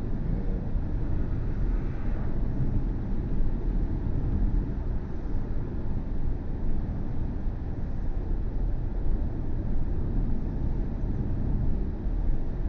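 Steady road and tyre rumble of a BMW i4 M50 electric car driving along, with no engine note, holding even throughout.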